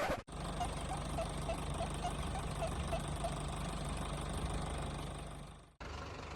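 Steady low engine idling sound, with faint short chirps repeating a few times a second above it; it cuts in abruptly and fades out near the end before a cut.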